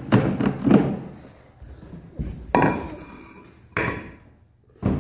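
A series of hard knocks and thuds, like a block of wood being knocked into place under a wheel, loudest near the start and about two and a half seconds in.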